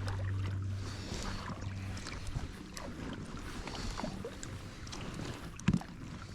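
Kayak paddle strokes swishing through the water about every three seconds. A low steady hum fades out about two seconds in, and there is a sharp knock near the end.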